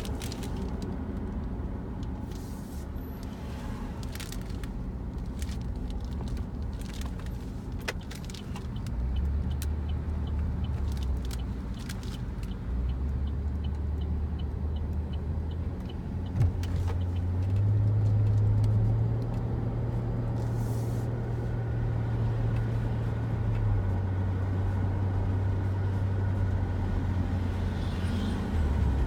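Running 2011 Buick LaCrosse, with a low drone from a worn right rear wheel bearing over steady road noise. The drone climbs in pitch in steps as the speed builds, holds, then eases down a little near the end.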